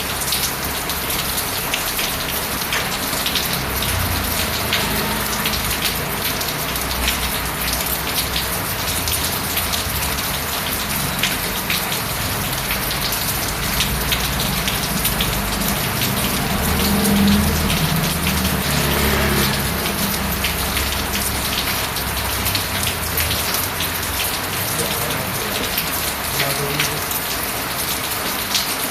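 Steady rain pattering on a surface, a dense even hiss full of fine drop sounds. Underneath, a low rumble comes and goes, loudest about seventeen seconds in.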